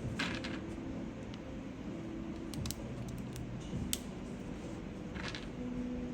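Light clicks and two short rustles as keyboard parts are handled during assembly, over a low steady background.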